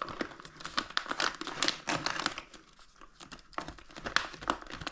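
A food pouch of rehydrating chicken fried rice crinkling and crackling as it is handled and sealed shut, with irregular bursts that thin out about halfway through and pick up again near the end.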